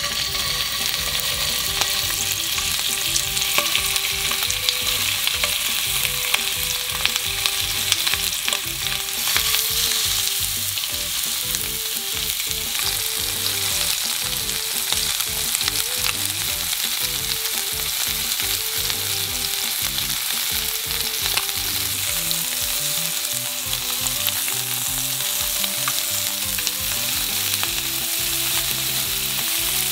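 Chicken-thigh and green-onion yakitori skewers frying skin-side down in oil in a nonstick frying pan: a steady sizzling hiss with many small crackles, busiest in the first ten seconds.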